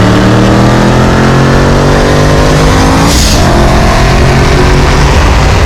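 Supercharged V8 race car at full throttle, its engine note rising steadily through a gear. About three seconds in there is a short burst of noise and the pitch drops at the upshift, then it climbs again.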